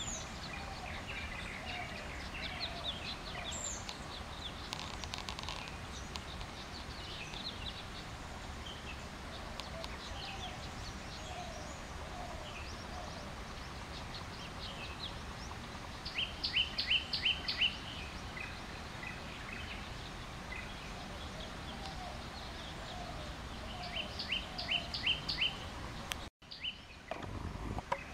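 Songbirds chirping in the trees, with two louder runs of quick, high, falling notes, one about sixteen seconds in and another about eight seconds later, over steady low background noise. The sound cuts out briefly near the end.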